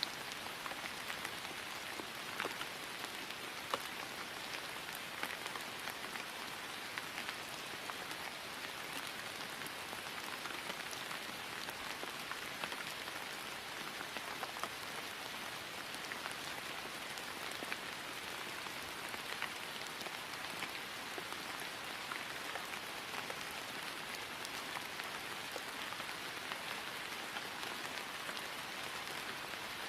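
Steady rain falling on grass, an even hiss scattered with the light ticks of separate drops.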